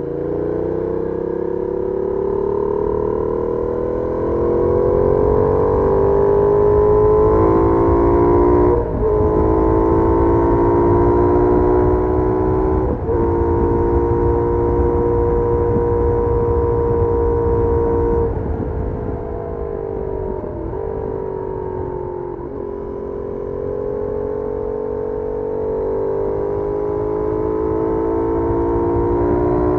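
Benelli Leoncino 800's parallel-twin engine through its stock exhaust, heard from on board while riding: it pulls up through the revs with two quick gear changes in the first half, holds a steady cruise for several seconds, then drops through a few downshifts before accelerating again near the end. A low wind rumble on the microphone runs underneath.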